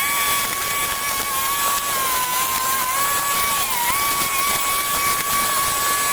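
Motor of a small garden power tool running at a steady high-pitched whine, with a steady hiss over it. The pitch sags briefly as the tool takes load, slightly about two seconds in and more clearly near four seconds.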